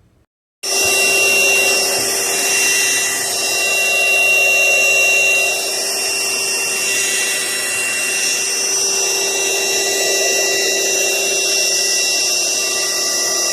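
Cordless stick vacuum cleaner's motor, starting abruptly about half a second in and then running steadily with a high whine over a rush of airflow.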